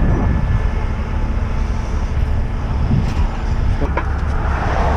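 Heavy truck diesel engine idling with a steady low rumble, with two short knocks about four seconds in.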